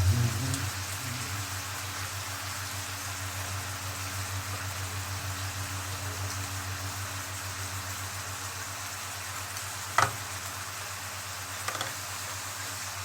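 Seafood frying in oil in a pan, a steady sizzle over a low hum. There is one sharp knock about ten seconds in and a couple of small clicks near the end.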